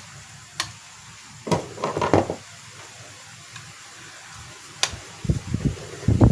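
Handling noises: a few sharp clicks and two short spells of rustling and scraping, over a low steady hiss.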